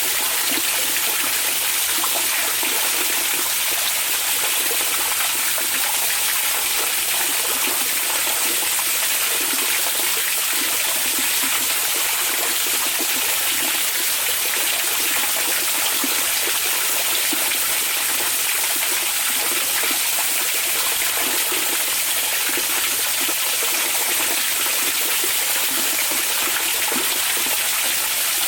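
Hot spring water flowing into an onsen bath: a steady, unbroken rushing and splashing of running water.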